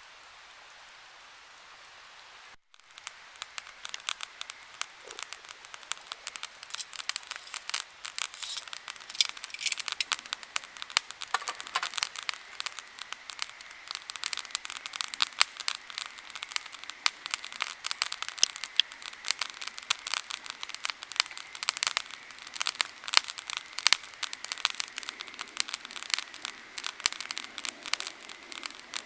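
Wood campfire crackling in a rapid, irregular stream of sharp snaps over a steady hiss of flowing water. Before the crackling starts, about three seconds in after a brief dropout, only the steady water hiss is heard.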